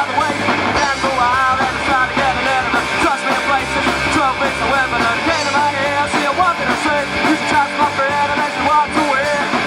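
Live rock band playing a fast punk-rock song, with singing over guitars.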